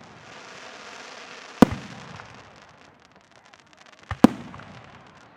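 Aerial fireworks shells bursting. A crackling hiss runs through the first two seconds, with a sharp bang about a second and a half in, then a quick double bang, soft then loud, around four seconds in.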